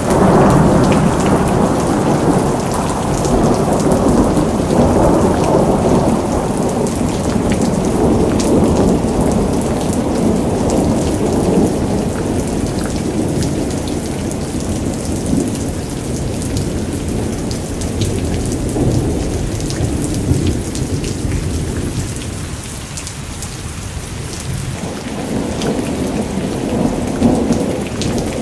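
Rain falling steadily with a long rolling rumble of thunder. The rumble eases about three-quarters of the way through and builds again near the end.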